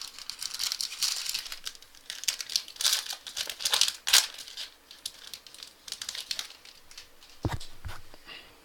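A foil trading-card pack being torn open and crinkled by hand, with dense, irregular crackling that is busiest in the first half. A couple of soft knocks come near the end.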